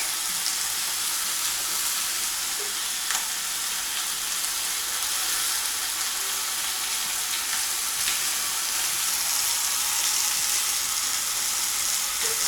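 Food frying in oil in a pan: a steady sizzle with a few faint spits.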